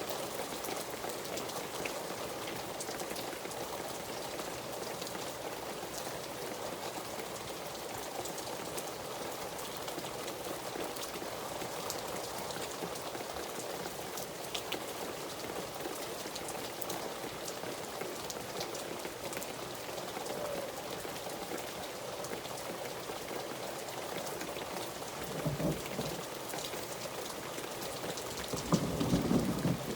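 Steady rain falling, with a constant hiss and fine individual drop ticks. Two louder, low rumbling swells come near the end.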